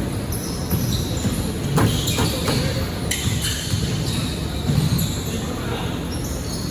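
Basketball game sound in a gym: the ball bouncing and knocking on the court, with short high squeaks of sneakers on the hardwood, over the echoing hum of the hall.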